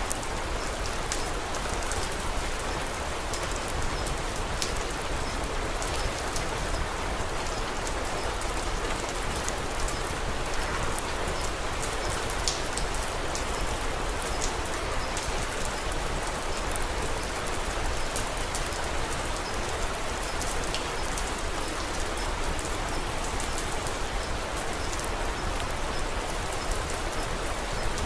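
Steady rain falling, with scattered small sharp pops and crackles of a wood fire mixed in.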